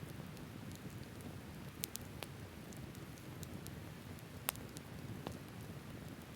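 Open wood campfire burning with a steady low rush and sparse, sharp crackles, one louder pop about four and a half seconds in.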